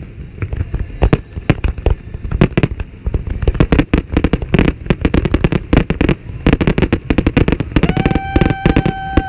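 Fireworks display: aerial shells bursting in quick succession, a dense string of sharp bangs that grows busier about midway. Near the end a steady high tone joins the bangs.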